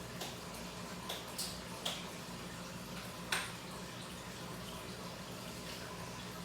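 Aquarium water circulating: a steady trickling wash over a low pump hum, with several short drippy ticks, the loudest a little past three seconds in.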